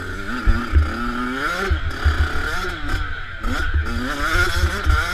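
Motocross bike engine revving up and down, its pitch climbing and dropping several times as the rider accelerates along a dirt track. Heard from a helmet-mounted camera, with wind rushing over the microphone and irregular low thumps.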